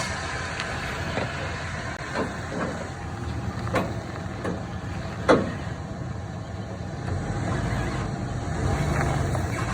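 Vehicle engine running steadily, with a few sharp knocks, the loudest about five seconds in; the engine gets louder about seven seconds in.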